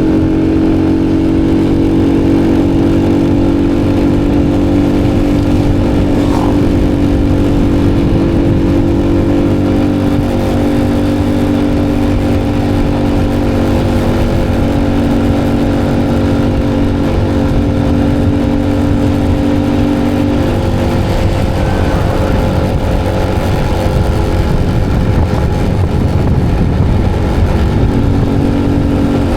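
Motorcycle engine running at a steady cruising speed, with wind buffeting the microphone.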